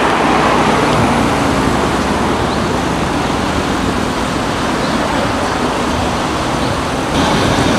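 BMW M3 F80's twin-turbo straight-six engine and exhaust running as the car moves off at low speed, steady throughout, amid street traffic noise.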